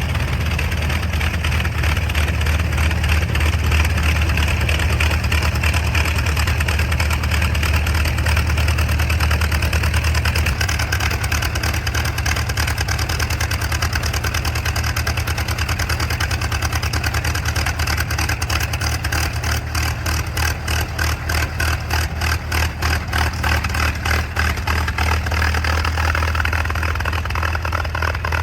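North American P-51 Mustang's Merlin V-12 aircraft engine running steadily at low power. For several seconds past the middle its sound pulses in a regular, uneven beat before smoothing out again.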